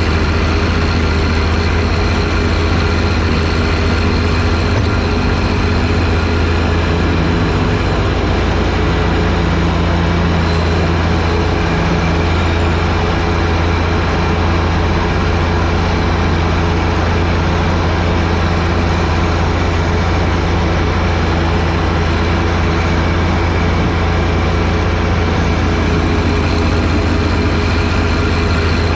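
John Deere 1025R tractor's three-cylinder diesel engine running steadily under load, driving a front-mounted 47in snowblower.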